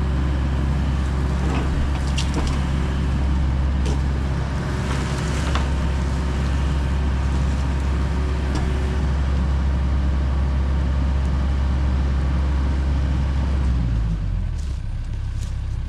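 John Deere 60G compact excavator's diesel engine running steadily at working throttle, with a few sharp clanks. About two seconds before the end the engine note drops as it throttles down.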